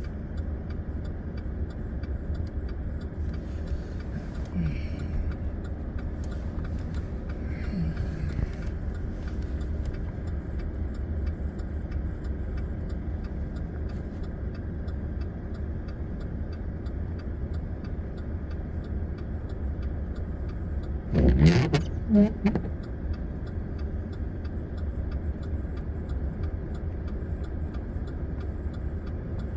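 Truck engine idling, a steady low rumble heard from inside the cab. About three quarters of the way through there is a brief, louder moment with a voice.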